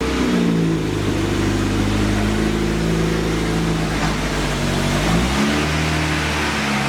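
A 32-year-old car engine running. Its revs fall in the first half second, hold steady, then rise briefly and settle on a new steady note about five seconds in.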